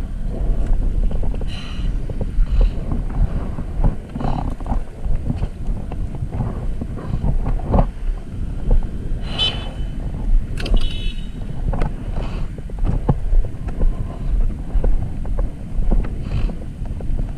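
Wind buffeting a rider's action-camera microphone with road rumble while riding an e-bike. A few brief sharp sounds come about eight to eleven seconds in, one with a high tone.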